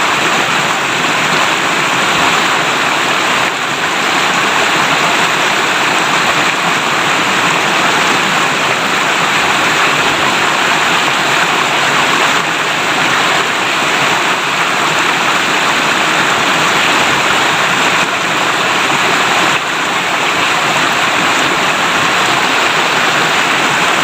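A river's shallow water rushing and babbling over stones, a steady, loud flow.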